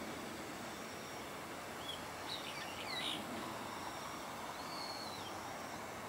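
A few short bird calls: a cluster of quick curving whistled notes about two seconds in, and one arched whistle near five seconds in, over a steady outdoor background hiss.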